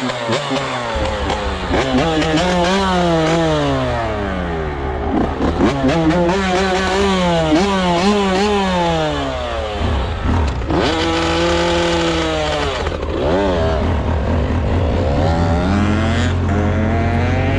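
Small off-road vehicle engine, revving up and falling back again and again as it is ridden, with a steady low engine hum underneath that grows louder near the end.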